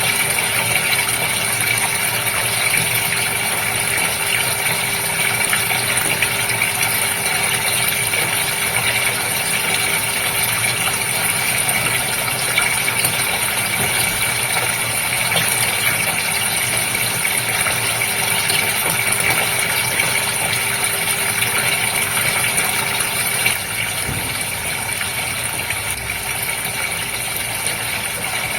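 Fish-tank water running steadily, with the continuous hum of its water pump. The level steps down slightly about 23 seconds in.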